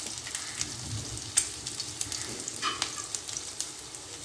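Chapli kabab patty of raw minced meat shallow-frying in hot oil in a black pan: steady sizzling with scattered crackling pops, one sharper pop about a second and a half in.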